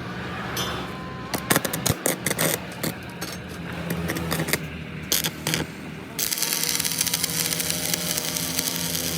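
Workshop tool noise: a quick run of sharp metallic clicks and knocks for about four seconds, then a steady hissing noise starts about six seconds in, over a steady machine hum.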